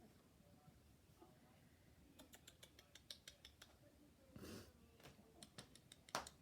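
Near silence broken by faint, scattered small clicks and a brief soft rustle, typical of young puppies stirring in their cage, with one sharper click near the end.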